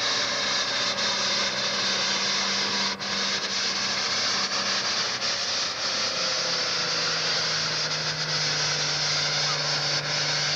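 Super farm pulling tractor's diesel engine running hard at full throttle while pulling the sled, a loud steady din whose engine note drops in pitch about two-thirds of the way through.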